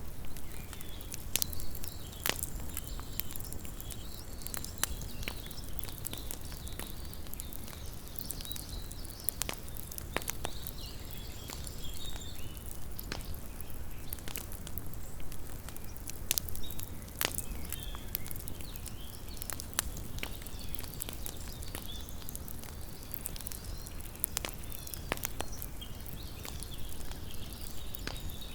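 Small wood campfire crackling, with irregular sharp pops scattered throughout, over a faint low rumble.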